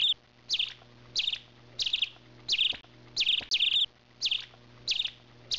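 A bird chirping over and over in short, fast-trilled chirps, about one every two-thirds of a second, with a faint low hum underneath.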